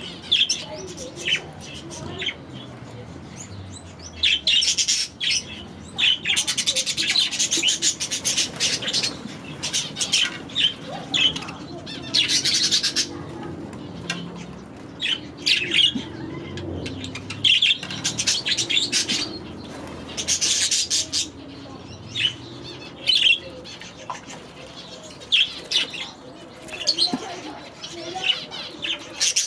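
A flock of budgerigars chirping and chattering in many short, high calls that come in quick clusters.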